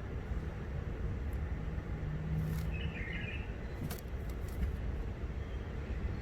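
Steady low rumble with a brief chirping call from a wild-caught bulbul about three seconds in, and a couple of sharp clicks.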